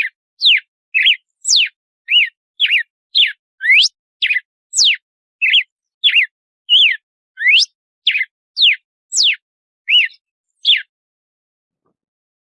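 Red-cowled cardinal (galo-de-campina) singing its 'açoite' song: a fast run of clear whistled notes, about two a second, each a quick rising, falling or arched glide. The run stops about eleven seconds in.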